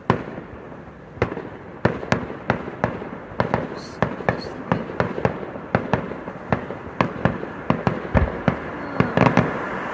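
Fireworks going off as a string of sharp bangs, at first about a second apart and then about three a second from about two seconds in, over a steady background rumble.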